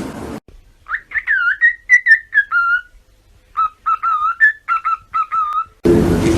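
A whistled tune in two short phrases of quick, clear notes that slide up and down, each phrase about two seconds long.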